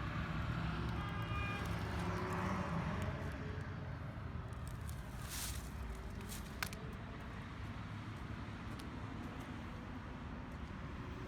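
Steady low background rumble of a large indoor space, with a short run of faint tones about a second in and a few faint clicks.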